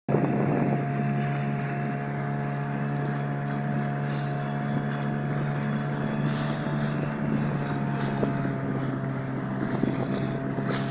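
Boat outboard motor running at a steady speed, a constant engine drone with a high whine over it and wind noise on the microphone; it cuts in abruptly at the start.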